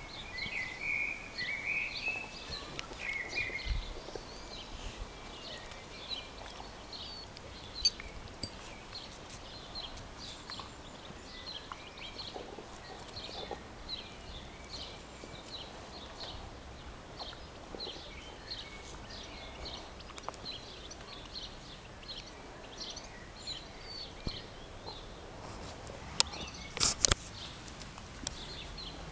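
Birds chirping in the background, short high notes repeated every half second or so, with a brief warbled phrase in the first few seconds. A sharp click about a quarter of the way in and a few louder knocks near the end stand out above them.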